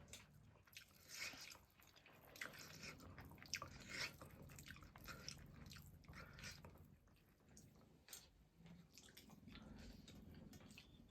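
Faint chewing and biting while eating chicken biryani: irregular small clicks and smacks of a mouth working on food, busiest in the first half.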